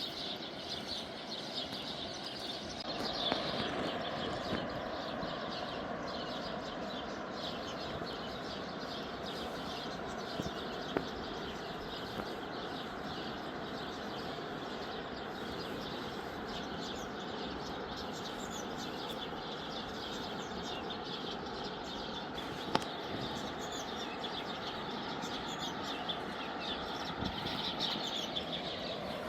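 Small birds chirping on and off over a steady rushing background noise, with two brief sharp clicks.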